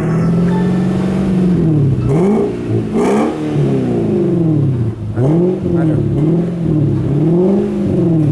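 Infiniti FX45's 4.5-litre V8 running through an aftermarket sport exhaust, held at a steady raised rev for about two seconds and then revved up and down in about six quick blips.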